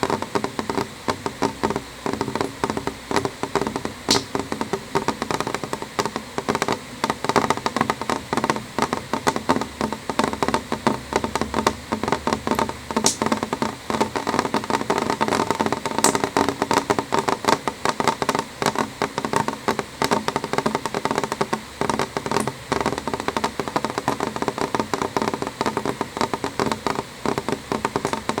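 Rain falling on a window: a dense, steady patter of drops tapping on the glass, with a few sharper single taps now and then.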